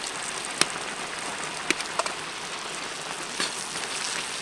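Chicken, shallots and garlic sizzling in oil in a large wok: a steady frying hiss, with four sharp clicks.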